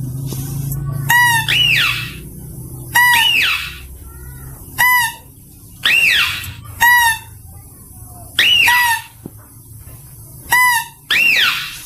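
Mouse-deer (kancil) call used as a hunting lure: short, clear, high-pitched calls, each rising and then falling in pitch, repeated every one to two seconds and often in pairs.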